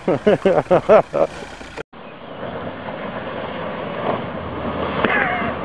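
Excited voices for about the first second, then a cut to a steady engine drone that slowly grows louder as a Škoda Favorit hatchback approaches along a muddy track.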